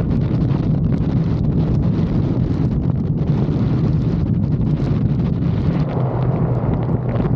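Motorcycle under way: heavy wind buffeting the microphone over a steady, low engine drone.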